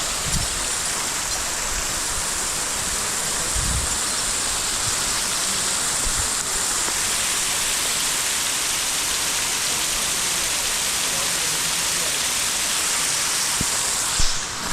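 Waterfall water pouring and splashing close by: a steady, even rush. A short knock near the end.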